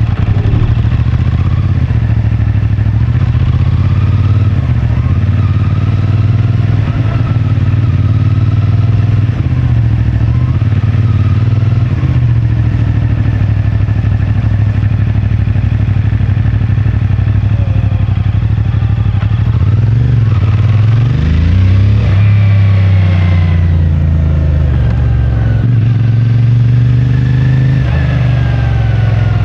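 CFMoto 450MT's parallel-twin engine on its stock exhaust, running at low, steady revs through most of the stretch. About two thirds of the way in the revs climb as the bike accelerates, then drop back, and they climb again near the end.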